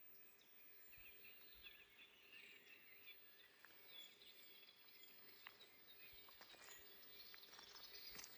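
Faint forest birdsong: several small birds chirping and twittering over a soft background hiss, with a few light clicks from the middle on.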